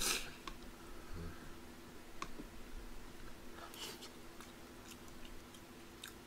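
Close-miked eating sounds: a man chewing a mouthful of tteokbokki, with a few light clicks of chopsticks against the pot. A faint steady hum runs underneath.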